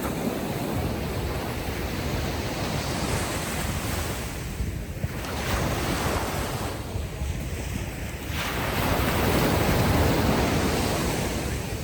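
Ocean waves breaking and washing up the beach in slow surges, with wind rumbling on the microphone. A bigger wave swells up about nine seconds in and then fades.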